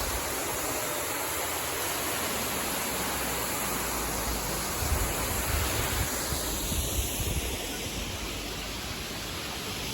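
Waterfall: a steady rush of falling water, with gusts of wind buffeting the microphone partway through.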